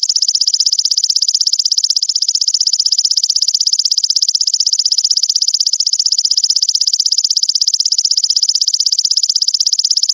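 A loud insect trill: a rapid, even train of buzzing pulses, high-pitched and unbroken, looped from a songbird-training recording of insect calls.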